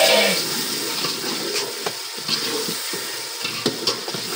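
Wet onion-tomato masala sizzling and bubbling in an aluminium pot over a hot wood fire, while a metal slotted spoon stirs it with irregular light scrapes against the pot.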